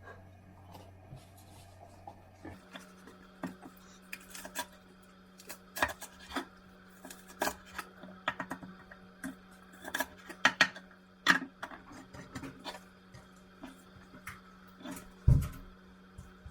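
Kitchen clatter: dishes and utensils clinking and knocking in a run of sharp taps, over a steady low hum that steps up in pitch a couple of seconds in, with one heavier thump near the end.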